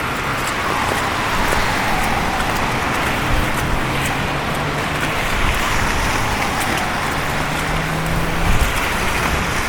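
City street traffic: cars passing with steady tyre noise, the hiss swelling and falling away as each goes by, with a low engine hum from a passing vehicle midway and again near the end.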